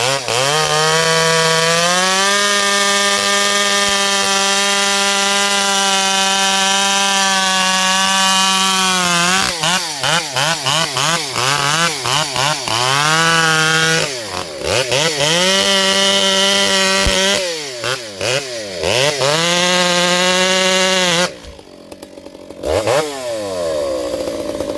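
Two-stroke chainsaw cutting through a large maple log. The engine holds a steady high pitch under load, with quick revs up and down between stretches of cutting, then drops off near the end.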